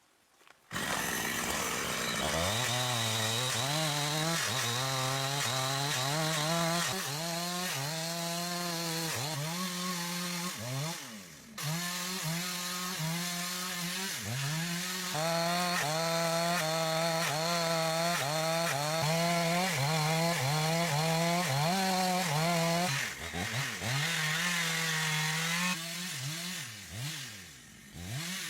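Two-stroke chainsaw cutting through large timber. It comes in suddenly about a second in, and its pitch keeps rising and falling as it works through the wood. It eases off briefly around the middle and twice near the end.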